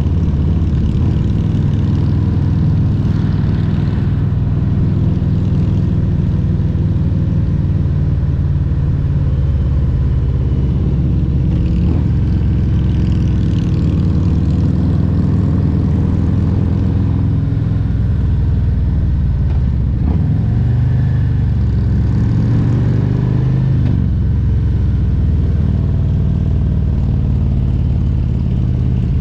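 Harley-Davidson Road Glide Special's Milwaukee-Eight 114 V-twin running under way on the road. The engine note holds steady for most of the stretch, then dips and climbs again a few times about two-thirds of the way through.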